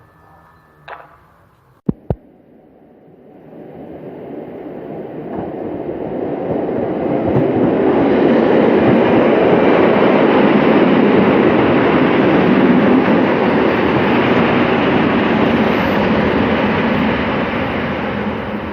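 Train running along the station track: a rumble of wheels on rails that builds over several seconds, stays loud, then begins to ease off near the end. Two sharp knocks sound about two seconds in, before the rumble starts.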